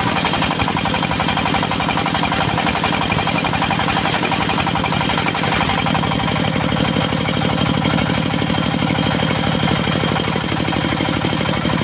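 Diesel engine of a portable circular sawmill running steadily with a fast, even chugging pulse; its low tone changes about halfway through.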